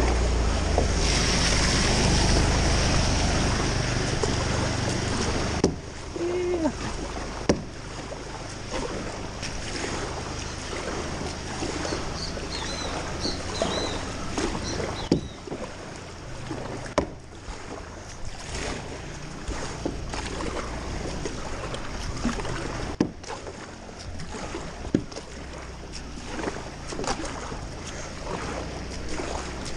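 Floodwater sloshing and splashing in a flooded street, with many short splashes. For the first five or six seconds there is a louder rush of water over a deep rumble, which then drops away suddenly.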